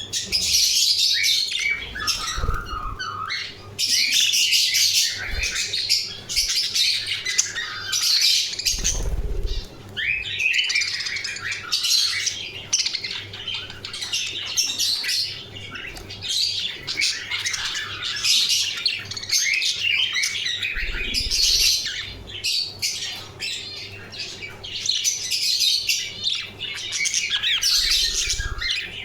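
Budgerigars chattering and chirping without a break, quick overlapping warbles and squawks. A few low thumps come through around 9 seconds in and again past the middle.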